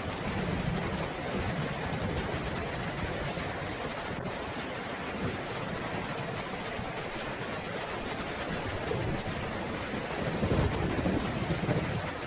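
Steady rainfall, with rolling thunder that swells into a louder low rumble about ten seconds in.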